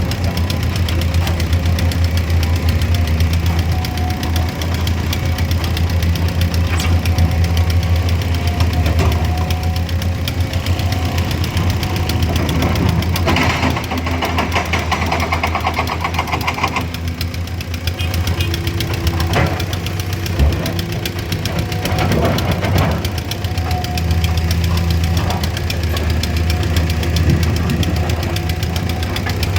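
Engine of heavy road-works machinery running steadily at a low, even pitch, with a louder stretch of higher, grittier noise from about 13 to 17 seconds in.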